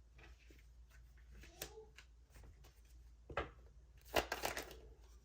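Tarot cards being handled and shuffled: a few sharp flicks and a rustling riffle, the loudest cluster about four seconds in.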